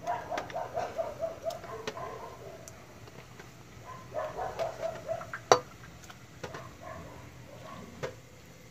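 A bird calling in two quick runs of short, even notes, with scattered clicks and one sharp metal knock about halfway through as fish are put into a metal pot and taken from a steel tray.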